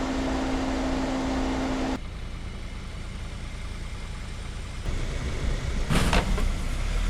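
Off-road SUV's engine running steadily, with a louder rough surge about five to six seconds in.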